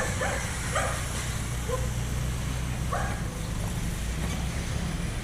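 A small dog yapping: a quick run of short barks in the first second and one more about three seconds in, over a steady low street hum.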